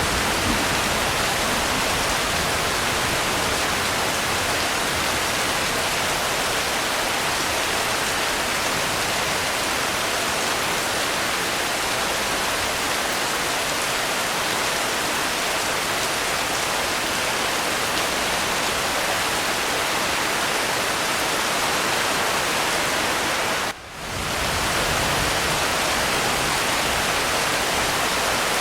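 Steady rain, an even hiss with no distinct drops or thunder, briefly dipping in level for a moment about three-quarters of the way through before carrying on as before.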